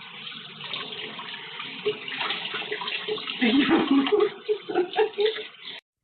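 Water running from a tap into a tub or sink. Short repeated vocal sounds rise over it in the second half, and everything cuts off abruptly near the end.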